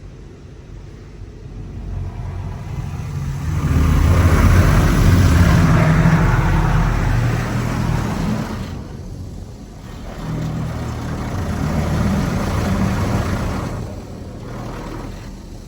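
PDQ LaserWash G5-S touch-free car wash machine running, a rushing hiss over a low rumble. It swells and fades twice, as the machine works its way past.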